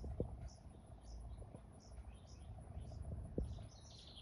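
Songbirds chirping in short, repeated high notes, with a steady high-pitched trill under them and a longer call near the end.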